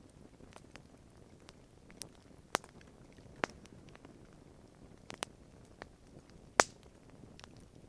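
Campfire crackling: scattered sharp pops of burning wood at irregular intervals over a soft steady hiss, with the loudest pop about two-thirds of the way in.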